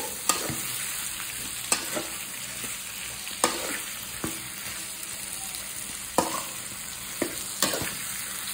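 Potato wedges in a tomato-onion masala sizzling in oil in a metal pot while a spatula stirs them, with a sharp scrape or knock of the spatula against the pot every second or two.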